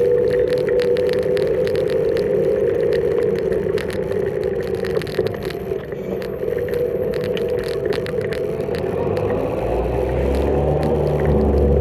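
Electric scooter motor humming loudly while riding: a steady high-pitched hum whose upper tone wavers a little mid-way, with scattered clicks and rattles. A low rumble comes in near the end.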